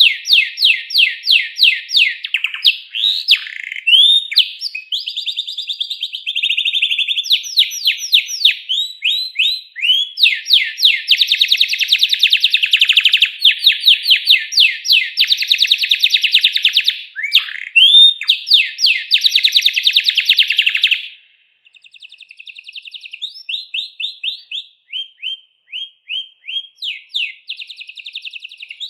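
Domestic canary singing a long song of rapid trilled phrases, each phrase a fast run of the same repeated note, changing from one phrase to the next; about 21 s in the song drops to softer, more spaced phrases.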